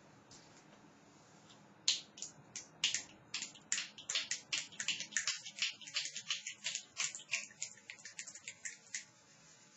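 Finger snapping imitating rain: a few snaps at first, then quick overlapping snaps, stopping about nine seconds in.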